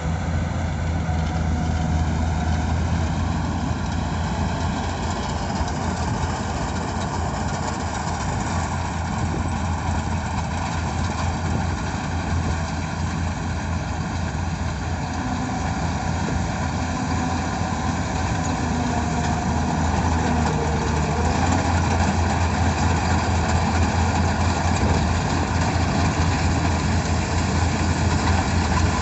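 Rice combine harvester's engine running steadily with a low hum, growing a little louder in the second half.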